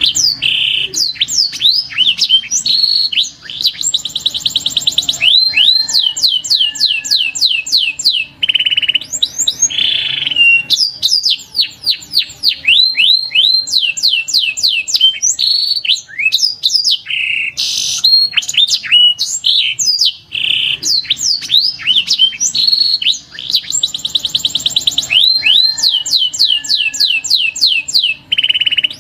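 Domestic canary singing a long, loud song of rapid trills and quickly repeated downward-sweeping whistles, phrase after phrase, with a few short pauses.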